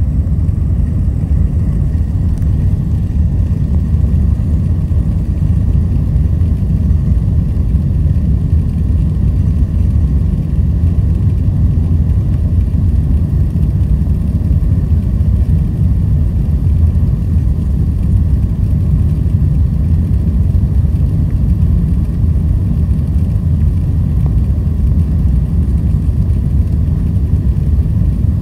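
Jet airliner cabin noise: a steady low roar of engines and rushing air, unchanging throughout.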